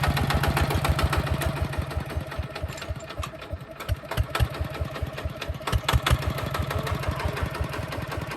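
Hinota HG Gold 155 DI tractor's diesel engine running with a rapid, even beat, dropping in loudness about three seconds in and picking up again about a second later.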